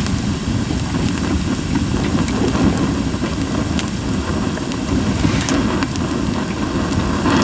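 Japanese white pine burning in a campfire, popping and crackling now and then, over a steady low rumble.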